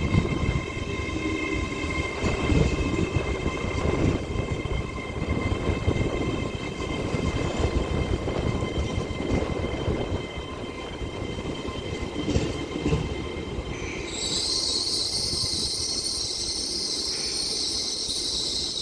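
TransPennine Express Class 802 train rolling slowly into the platform: a low rumble with a steady high whine. About three-quarters of the way through, a loud high-pitched brake and wheel squeal starts and holds until the train stops, where it cuts off.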